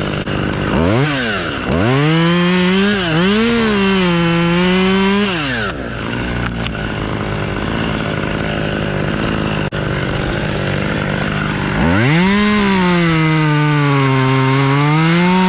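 Two-stroke chainsaw revved up from idle to cut wood, twice. Each time the engine pitch sags and wavers under the load of the cut, then drops back to a steady idle between cuts.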